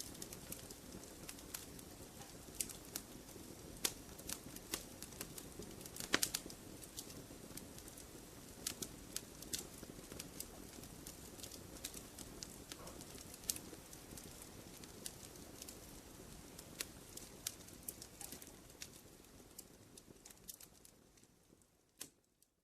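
Wood campfire crackling, with frequent irregular sharp pops and snaps over a low, steady hiss and rumble of burning. The sound fades away near the end.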